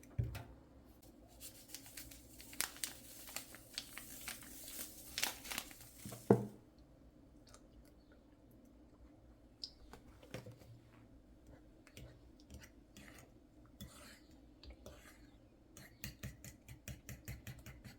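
Crinkling, tearing handling noise with scattered clicks, ending in one loud thump about six seconds in. After that come sparse light clicks, and near the end a quick, regular tapping starts.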